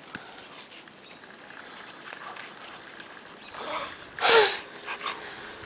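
A greyhound gives one short, loud whine about four seconds in, over faint rustling.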